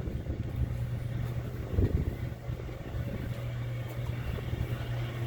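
Steady low mechanical hum, with a brief low rumble about two seconds in.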